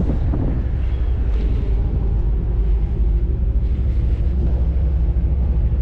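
Car ferry's engines droning in a low, steady rumble, with wind buffeting the microphone.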